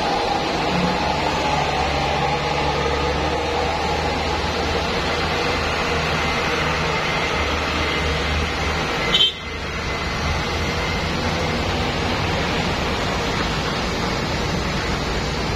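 Heavy truck engines running with road and traffic noise, steady throughout, broken by a short sharp sound and a brief drop in level about nine seconds in.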